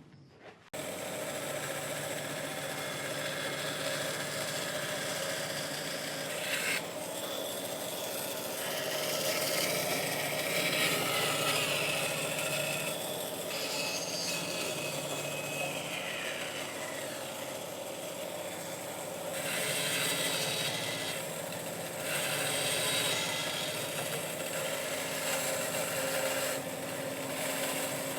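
Domino joiner motor running steadily, cutting mortises into wood for domino tenons, with a rasping cut sound that swells louder at several points.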